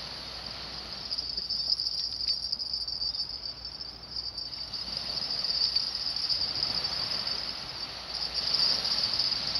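Insects chirring in a continuous high-pitched chorus, with a soft background rush that swells a little twice.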